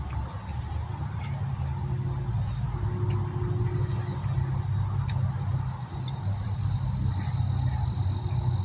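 Wind buffeting the microphone: a steady low rumble, with a few light clicks on top.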